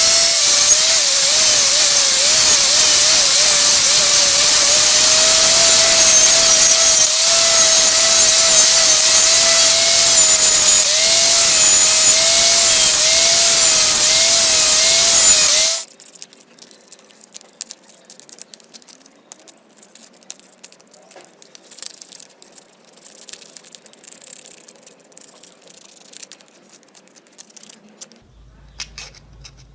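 A handheld power tool runs against material, its motor whine wavering as the load changes, then cuts off suddenly about 16 seconds in. Faint clicks and handling sounds follow.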